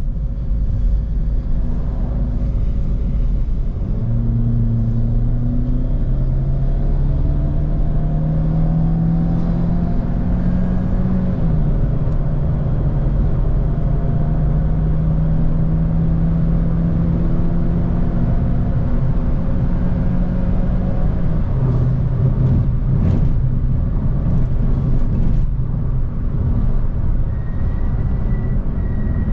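Citroën DS4's 1.6 turbo four-cylinder engine under way with road rumble beneath. The engine note climbs for several seconds, dips slightly and holds steady, then falls lower about two-thirds of the way through. A few sharp clicks come soon after, and a thin high tone sounds near the end.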